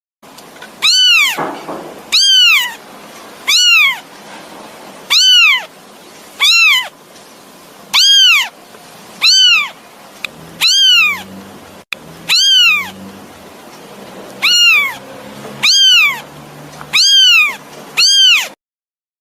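A kitten meowing over and over: about thirteen high meows, each rising then falling in pitch, a little over a second apart. These are a kitten's calls for its mother.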